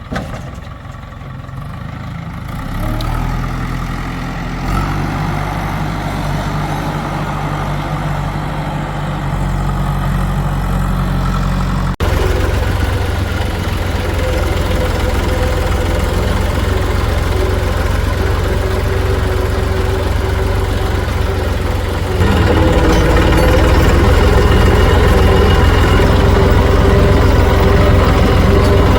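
Heavy diesel engines of a backhoe loader and tractors running steadily, building in level over the first few seconds. The sound changes abruptly about twelve seconds in and grows louder again about two-thirds of the way through.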